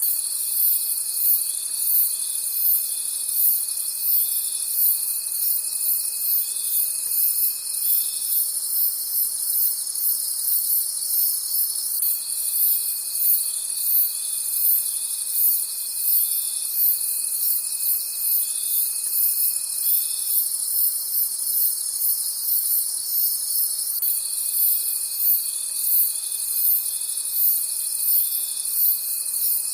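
Chorus of crickets at night: a dense, high pulsing trill with several steady chirring layers beneath it. A lower, single steady trill sounds for about eight seconds, stops for a few seconds, and starts again twice.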